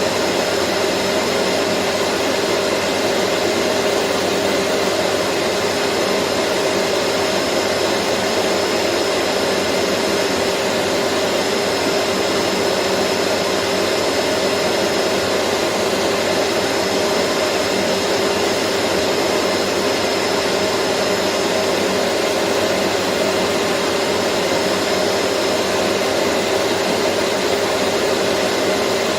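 Vacuum cleaner running steadily: an even motor and airflow hiss with a faint hum, unchanging.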